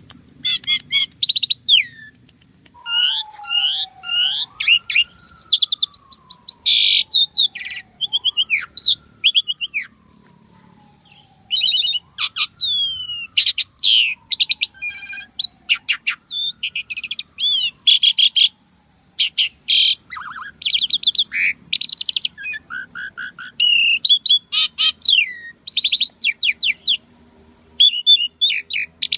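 Pied starling (jalak suren) singing energetically: a rapid, varied run of chattering chips, trills and falling whistled notes packed with imitated calls. Under it, a long, slow falling whistle repeats about four times, in the early and middle part.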